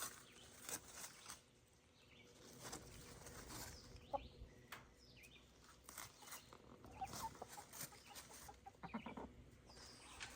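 Chickens clucking faintly now and then.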